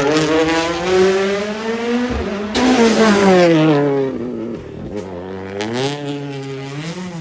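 A rally car's engine at full throttle, climbing in pitch for about two seconds and then breaking sharply about two and a half seconds in. The note then falls steadily as the car slows, and climbs again near the end as it accelerates away.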